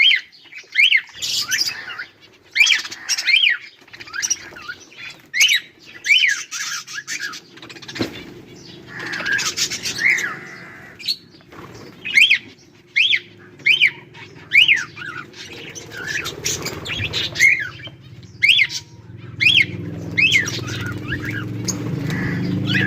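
A flock of budgerigars chirping and squawking in short, quick calls, one after another. A low steady hum comes up under the calls near the end.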